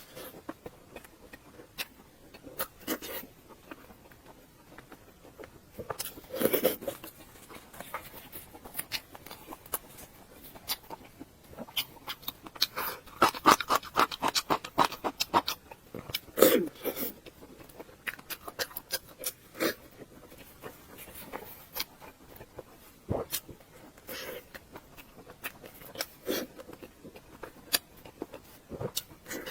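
Close-miked eating sounds: chewing with scattered sharp mouth clicks, and a dense run of rapid crackling clicks about halfway through.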